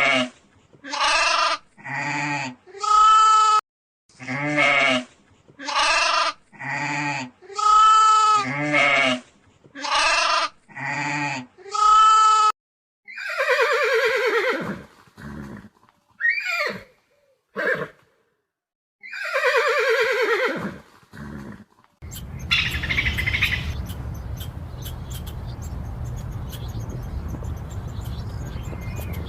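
A goat bleating over and over in short calls, about one a second. Then comes a handful of longer calls that slide down in pitch. For the last several seconds the calls stop and a steady low rumbling noise remains.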